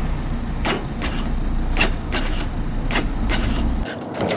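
Yamaha supermoto engine running with a low, steady rumble that cuts off suddenly near the end, with scattered sharp clicks over it.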